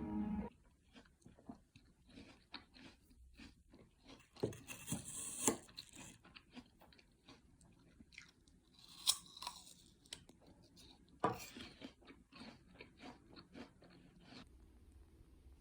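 A person chewing and crunching food, faint and close, with scattered small clicks and a few louder crunches spread through.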